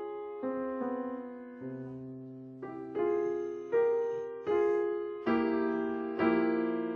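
Piano playing slow chords, each struck sharply and left to ring and fade before the next.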